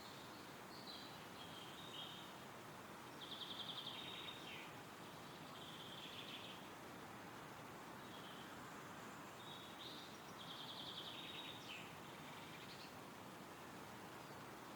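Wind rustling through trees as a faint steady hiss, with a songbird singing high, rapid trilled phrases in two bouts, one about a second in and another about ten seconds in.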